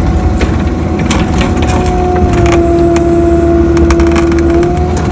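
Mini excavator digging: the diesel engine and hydraulic pump run with a steady whine while the bucket scrapes and crunches through dirt and stones, giving many short cracks and clicks. The hydraulic tone dips slightly in pitch near the end.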